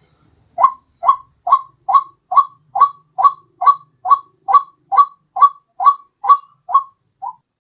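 White-breasted waterhen (ruak-ruak) calling: a rapid run of about sixteen short, identical notes, a little over two a second, starting about half a second in, with the last note fainter.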